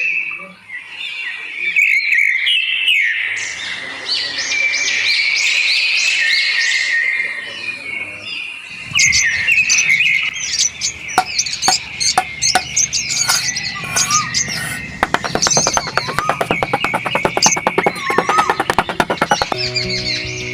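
Birds chirping repeatedly. About nine seconds in, a low hum with scattered clicks joins, becoming a fast ticking for several seconds, and steady tones like music come in near the end.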